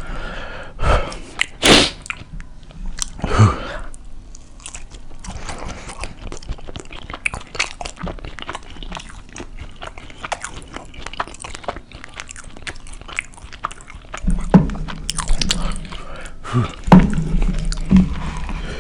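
Close-miked eating sounds: a man biting into and chewing a beef burrito, with a few loud bites early on and then a steady run of wet mouth clicks and smacks. Several heavier bumps come in the last few seconds.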